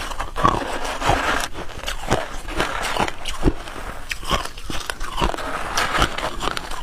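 A person biting and chewing hard ice: a rapid, irregular series of sharp crunches and cracks as the ice breaks between the teeth.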